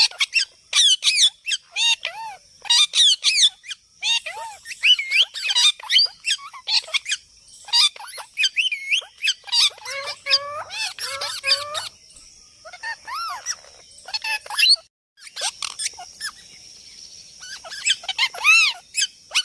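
A parrot squawking and calling in a rapid, continuous series of short, sweeping calls with brief pauses between bursts. A faint steady high tone runs beneath the calls through the middle.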